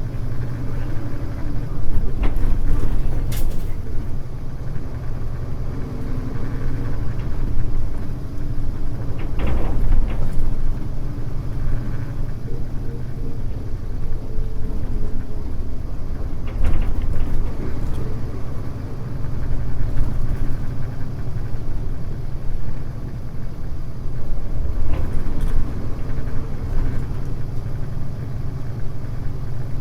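Mitsubishi Fuso U-MK618J route bus running along the road, its diesel engine giving a steady low drone, with a few short knocks and rattles from the body over bumps.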